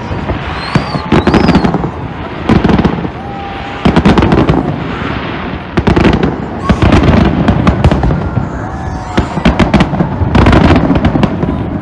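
Fireworks display: clusters of loud bangs and crackling bursts in the sky, with a few short whistles from rising shells.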